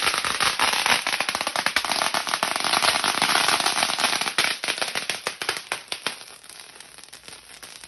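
Firecrackers going off in a dense, rapid crackle of sharp pops, loudest for about the first four seconds, then thinning out and fading toward the end.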